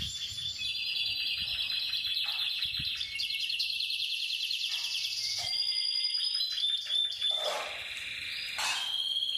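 Domestic canary singing: long rapid trills and rolling phrases, with a brief pause about a second before the end.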